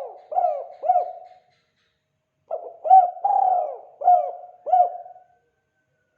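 Spotted dove (tekukur) cooing in the 'kuk 2' style, the call used to lure wild doves: the last two short coos of one phrase, then after a pause a full phrase of short notes, one long drawn-out coo and two closing coos.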